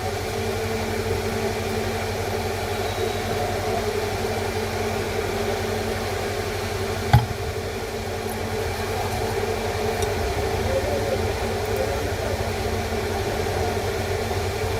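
Steady mechanical hum with a hiss of background noise, and a single sharp click about seven seconds in.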